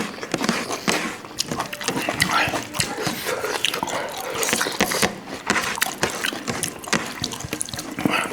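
Close, wet chewing and lip-smacking of people eating fatty pangas fish, with many small irregular clicks and smacks.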